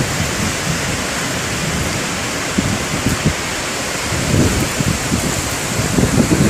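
Heavy rain pouring down in a windstorm, a steady hiss, with gusts of wind buffeting the microphone a few times.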